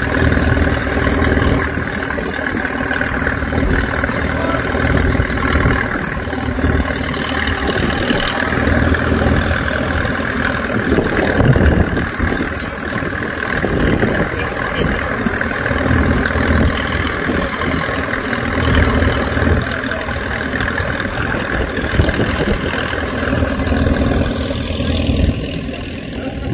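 Old farm tractor engine running steadily, its low rumble swelling and easing.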